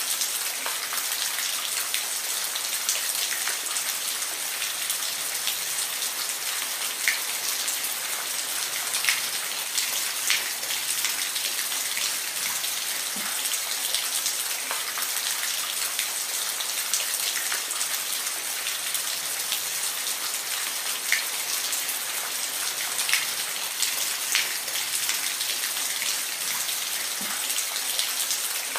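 Steady rain falling, a constant hiss with scattered individual drops ticking sharply on a hard surface.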